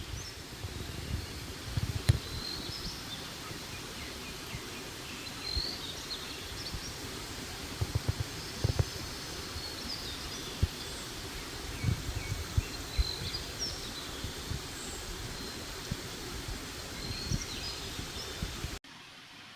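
Birds chirping now and then over a steady outdoor hiss, with scattered low thumps and rumbles; the sound drops off abruptly near the end.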